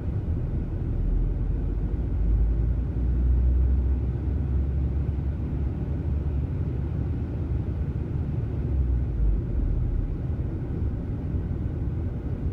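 2003 VW Passat 1.8T turbocharged four-cylinder engine idling roughly, its low rumble swelling and falling back slowly as the idle hunts up and down. The owner suspects a vacuum leak, or possibly a failing throttle pedal.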